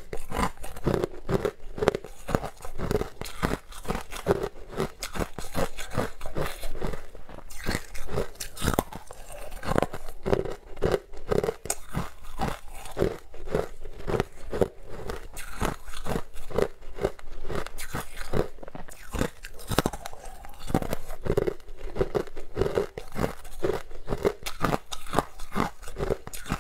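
Close-miked crunching and chewing of a hard, dark purple sweet, with dense crackly crunches repeating at a steady chewing rhythm.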